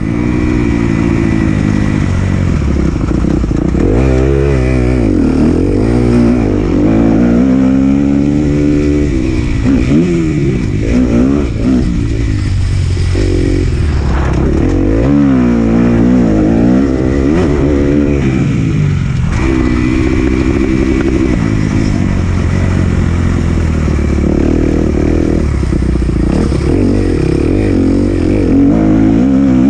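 Kawasaki KX250F four-stroke single-cylinder motocross engine revving up and easing off again and again, its pitch rising and falling with the throttle and gear changes.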